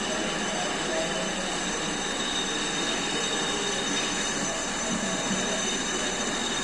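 Metal lathe running steadily, a continuous mechanical noise with several high whining tones held throughout.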